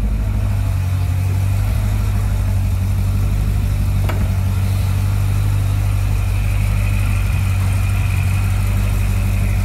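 Corvette C6 Z06's 7.0-litre LS7 V8 idling steadily, freshly filled with new oil and running for a leak check.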